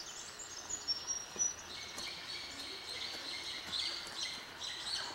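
Birds chirping and calling: a run of short, high whistled notes, with a few faint clicks.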